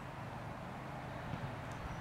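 Supercharged V8 engine of a Ford Lightning pickup with a Whipple 2.3 L supercharger, running steadily with an even low hum.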